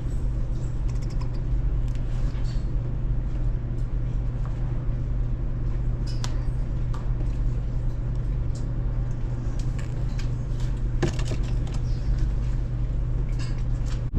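Steady low machine hum with scattered faint clicks and ticks.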